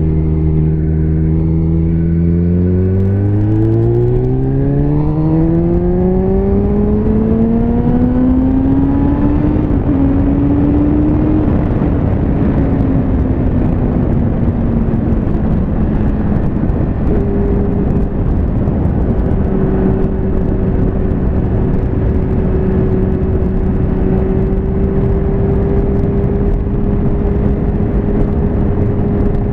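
Liter-class motorcycle engine accelerating hard, its pitch rising smoothly for several seconds, then easing back a little and holding steady at cruising speed, under heavy wind rush.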